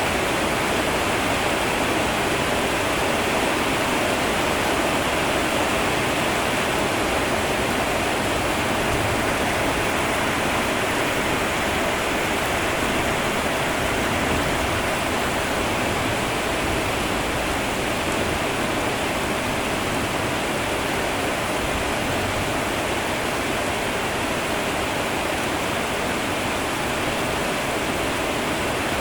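Steady heavy rain: an even, unbroken rush with no separate drops or other events standing out.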